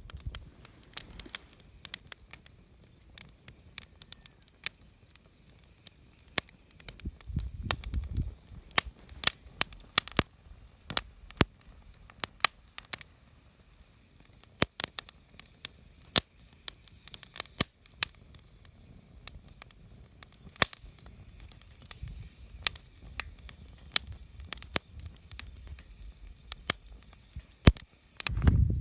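Wood campfire crackling, with irregular sharp pops coming several a second at times, and a brief low rumble about a quarter of the way through.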